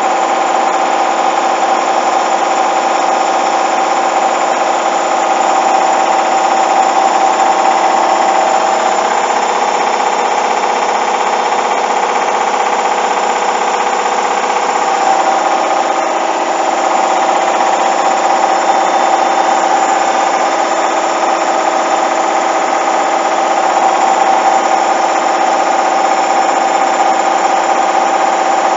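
Hoover washing machine spinning at high speed, a steady loud motor whine and drum hum with no break.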